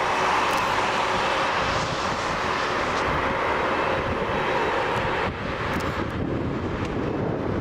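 Jet airliner flying past, its engines making a loud, even noise. About five seconds in the higher part of the sound drops away and the noise lessens.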